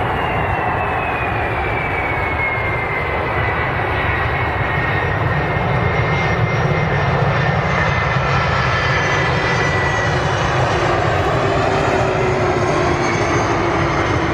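Airbus A330-200 jet airliner's engines going past on landing: a steady loud rush with a thin whine that slides slowly down in pitch as the aircraft passes.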